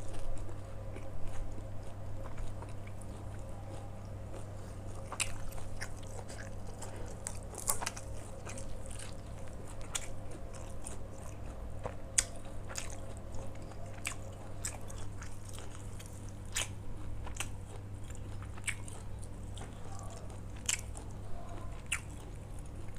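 A person biting and chewing food close to the microphone, with scattered crisp crunches and mouth clicks. A steady low hum runs underneath.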